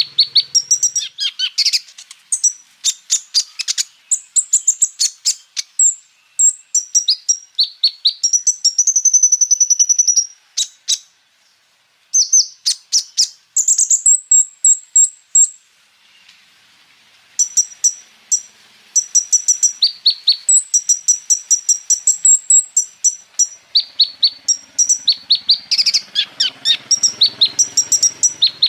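Kolibri ninja sunbird singing: rapid runs of sharp, very high chirps and fast trilled rolls in quick bursts, with two short pauses.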